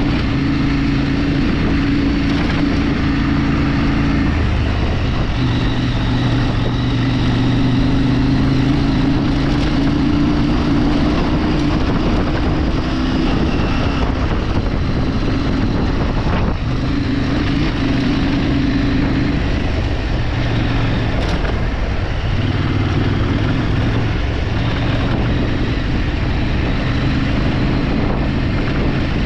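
Vehicle engine running while driving off-road, its pitch stepping up and down every few seconds as the revs change, over steady wind and road noise.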